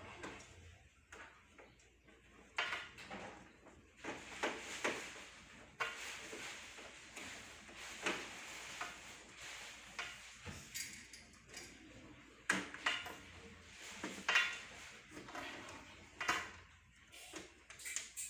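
Irregular knocks, clatter and scraping of hard objects being handled, in uneven bursts with no steady rhythm.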